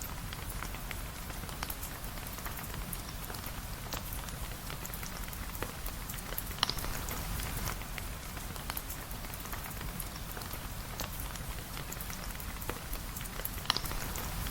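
Steady rain, an even hiss over a low rumble, scattered with many small sharp clicks and pops. Two louder pops stand out, about halfway through and near the end.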